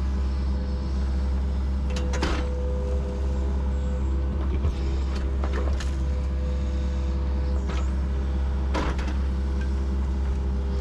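Yanmar SV40 mini excavator's diesel engine running steadily under hydraulic load while digging, with a steady low drone and a few short knocks about two, six, eight and nine seconds in.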